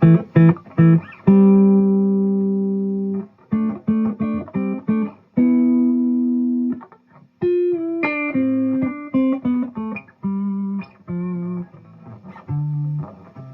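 2007 Gibson Les Paul Standard electric guitar played softly with the fingers through a Fuchs Train-45 tube amp with 6V6 power tubes: picked single notes and short phrases, with a couple of chords left ringing for about two seconds.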